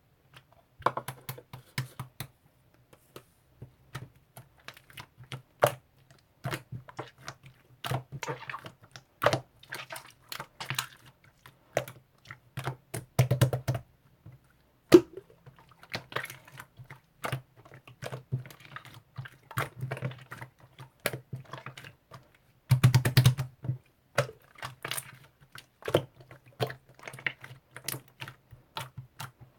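Sticky 'apple jam' slime being pressed, poked and stretched by hand, giving a steady run of irregular sticky clicks and small pops, thickest in clusters about a third of the way in and again after the twenty-second mark.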